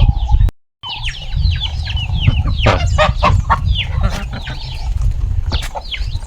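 Young chicks peeping, many short high chirps that fall in pitch and overlap, over a low rumble. The sound cuts out completely for a moment about half a second in.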